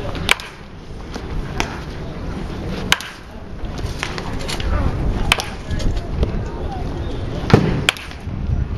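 Wooden baseball bats striking balls in tee batting practice: a string of about eight sharp cracks at irregular intervals, a couple coming close together as two batters hit.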